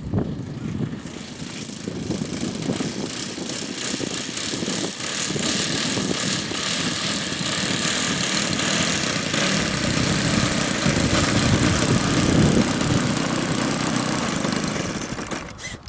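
A motor running steadily, building up over the first couple of seconds and fading out near the end.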